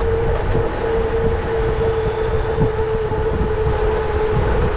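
Wind rumbling on the microphone of a mountain bike riding at speed, with a steady humming tone from the moving bike.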